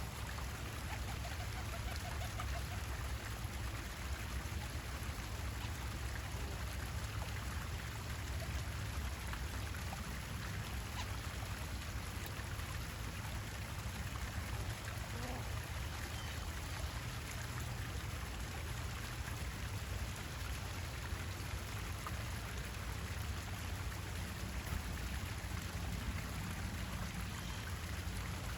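Steady trickle of running water over a constant low rumble.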